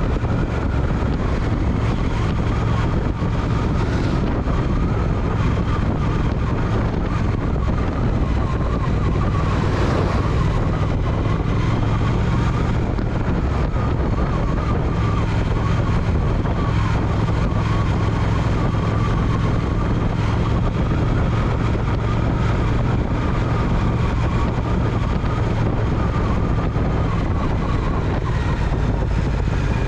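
Triumph Speed Twin's parallel-twin engine running at a steady cruise, with wind noise over the microphone. About ten seconds in there is a brief swell of louder noise.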